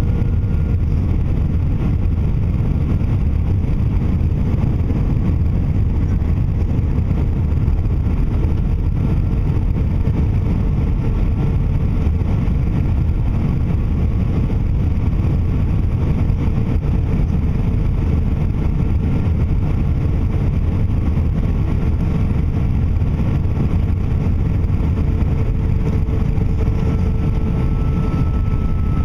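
Steady rumble of engine and airflow noise inside the cabin of an Airbus A319 airliner, with a faint whine over it that shifts slightly in pitch near the end.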